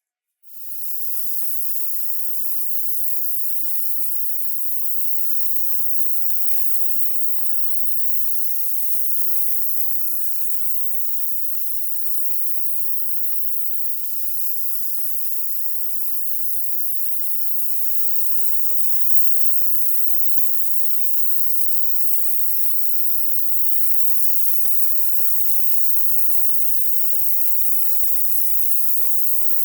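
A spray nozzle hissing steadily, starting about half a second in.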